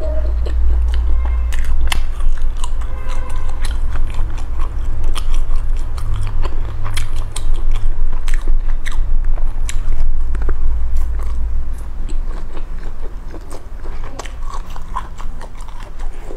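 Close-miked chewing and biting of chili-spiced skewered food, with many irregular wet crunches and smacks, over a steady low hum.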